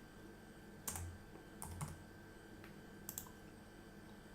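A few faint, scattered computer keyboard key presses.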